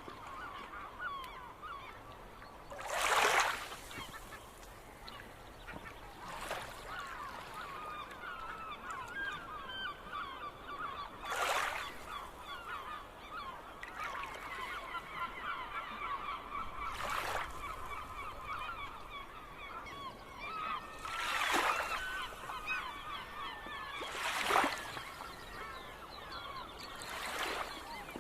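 A flock of gulls calling: many short, overlapping calls chattering on without a break, with seven louder, harsher noises standing out every few seconds.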